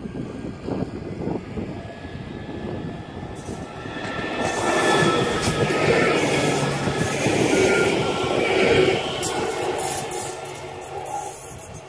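An Öresundståg electric multiple-unit passenger train passing by on the line. Its rumble and rush grow louder from about four seconds in, peak as it goes past, then fade as it moves away.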